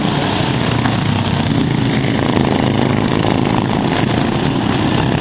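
Racing lawn mower engine running steadily and loudly, with no rise or fall in pitch.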